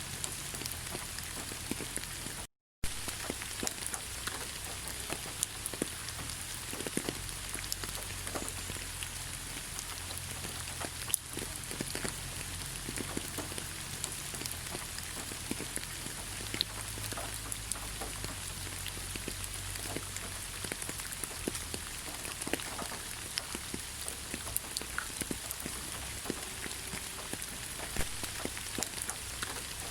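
Steady rain falling in a forest: an even hiss with many separate drops ticking through it. The sound cuts out for a split second about two and a half seconds in.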